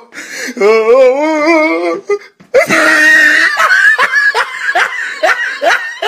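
A man laughing hysterically: a long wavering cackle, a short break, then high, wheezing gasps of laughter, about two or three a second.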